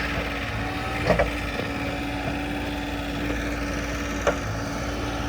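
An engine idling steadily with a constant hum, with two sharp knocks, one about a second in and one about four seconds in.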